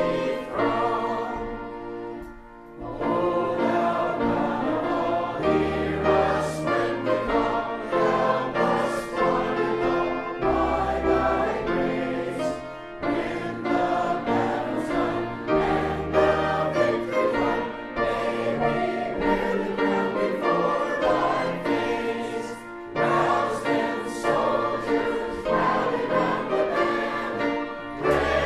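A choir sings a hymn in sustained chords over an accompaniment whose low bass notes change every second or two. The sound dips briefly between phrases about two and a half seconds in.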